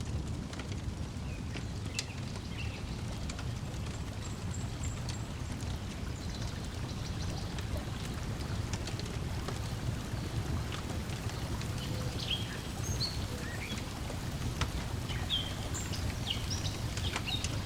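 Layered lakeside ambience: a steady low wash of waves lapping and breeze, with sharp crackles and pops from a wood fire. Short high bird chirps come and go, more of them toward the end.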